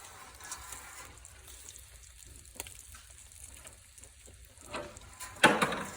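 Wood fire in a fireplace hissing and crackling with scattered faint snaps as food cooks in it. A louder, sharp burst comes near the end.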